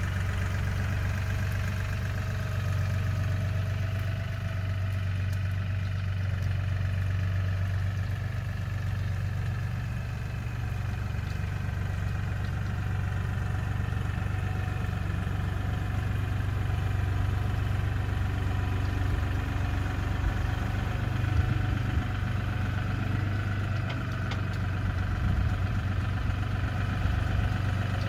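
LS MT235 compact tractor's diesel engine running steadily at a constant speed.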